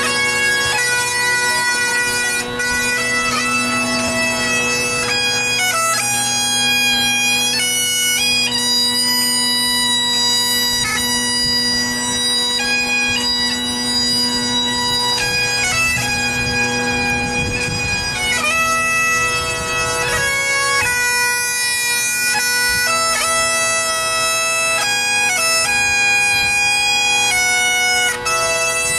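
Bagpipes playing a melody over their steady drones, the chanter moving between held notes with quick grace-note flourishes.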